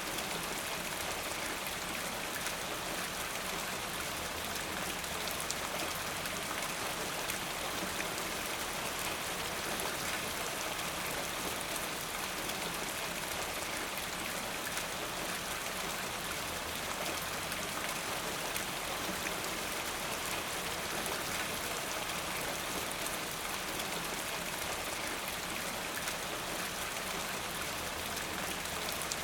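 Steady, even rain falling, with the patter of many drops on a surface.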